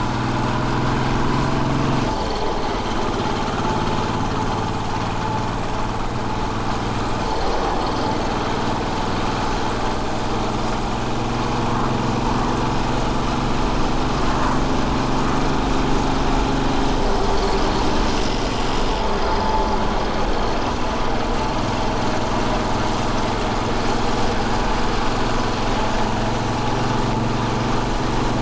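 Royal Enfield Bullet 500's single-cylinder engine running under way, its note shifting in pitch a few times as the throttle and gears change.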